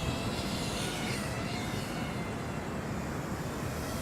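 Eachine Wizard X220 FPV racing quadcopter flying at a distance, its motors whining, the pitch wavering up and down as the throttle changes.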